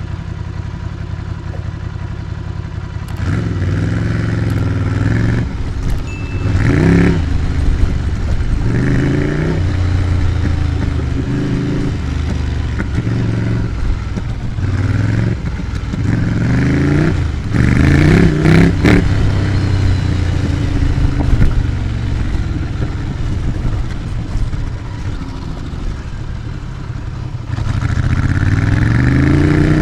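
Ducati Scrambler Icon's air-cooled L-twin engine through an HP Corse GP07 exhaust with the baffle in. It runs low and steady for about three seconds, then the bike pulls away and revs up repeatedly through the gears, the pitch rising with each pull.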